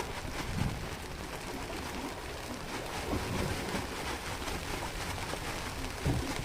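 Strong wind and sea noise aboard a small fishing boat: a steady rushing hiss, with gusts buffeting the microphone in low rumbles three times.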